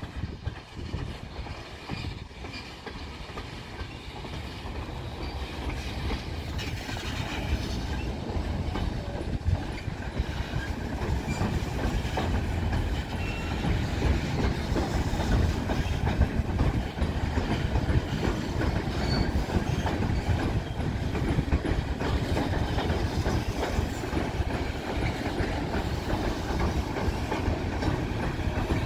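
Union Pacific oil train's tank cars rolling slowly past while being backed down the line: a steady low rumble of steel wheels on rail with a dense run of clicks. It grows louder over the first dozen seconds as the cars come near, then holds steady.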